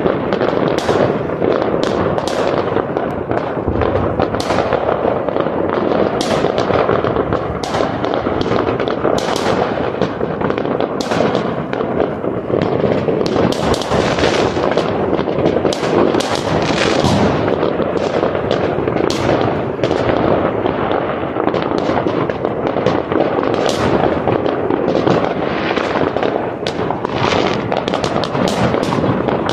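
Many fireworks going off at once: a dense, unbroken barrage of bangs and crackling, with sharp cracks piling on top of each other and no pause.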